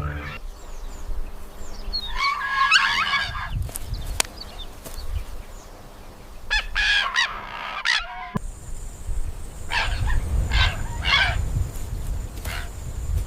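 A large bird calling in harsh bouts, four times over a few seconds, with a low rumble underneath in the second half.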